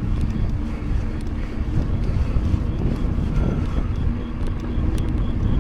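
Wind rushing over the microphone of a moving mountain bike, a steady low rumble. From about halfway there is a faint, rapid, evenly spaced high ticking.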